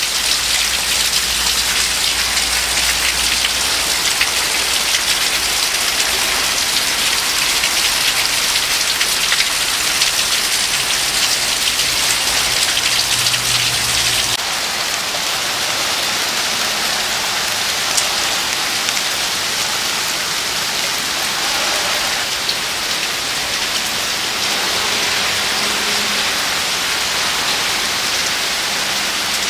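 Heavy rain pouring down, a dense steady hiss of drops striking surfaces. About 14 seconds in the sound drops a little and a low rumble beneath it stops.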